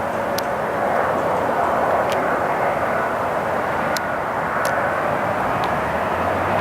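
Jet airliner's engines sounding as a steady rushing noise, with a few faint short ticks over it.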